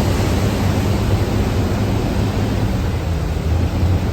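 Thames Clipper river boat under way: a steady rushing noise over a low, even engine hum.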